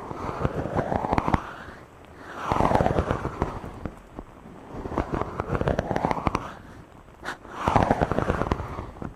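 A microphone being rubbed directly in slow back-and-forth strokes, a crackly, scratchy rustle right on the capsule. There are about four strokes, each sweeping up or down in pitch, with short lulls between them.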